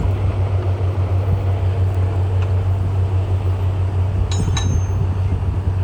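Heavy diesel engine of earthmoving machinery running steadily under a low drone, with a brief metallic clink about four and a half seconds in.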